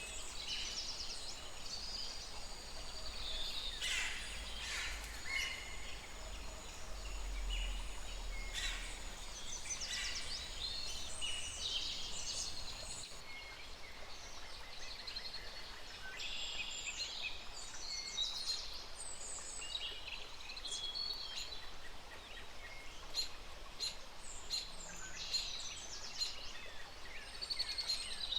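Several birds chirping and calling in many short, overlapping chirps and whistles, over a low rumble that stops about halfway through.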